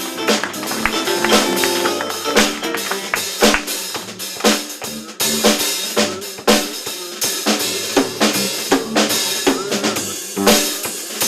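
Drum kit played live with bass drum, snare and rimshots in a dense rhythm, with some pitched notes underneath.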